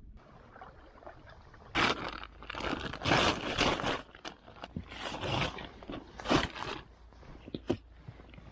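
Loaded kayak's hull scraping and crunching in irregular bursts as it is pushed hard along, several separate scrapes spread across a few seconds.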